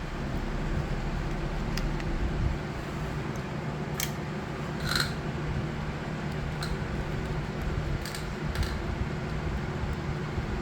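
Scattered light clicks and knocks from hand tools and the trimmer's plastic cover parts being worked loose, over a steady low hum. A short squeak comes about five seconds in.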